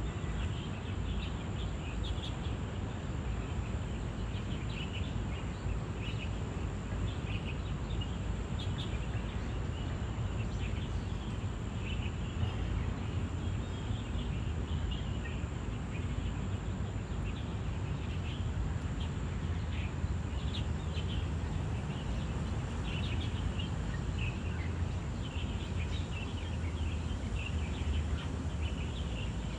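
Outdoor ambience: many short, high bird chirps scattered throughout over a steady low rumble, with a thin, steady high-pitched whine running underneath.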